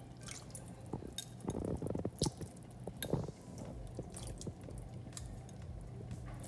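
Braised chicken feet being stirred in a pot of sauce thickened with cornstarch: wet squelching and squishing, with scattered clicks of the utensil against the pot.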